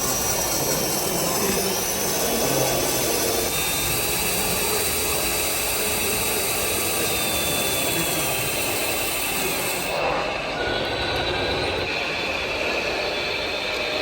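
Radio-controlled model construction vehicles running: the electric drive motors and gearboxes whine steadily at a high pitch, some tones sliding up and down as the models change speed. A high hiss drops away about two-thirds through.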